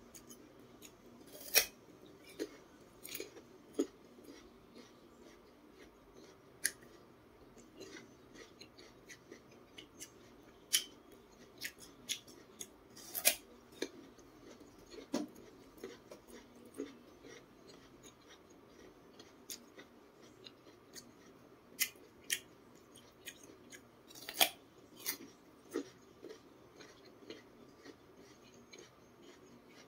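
Close-miked crunching and chewing of raw peeled jicama: irregular crisp crunches, with a few sharper, louder bites.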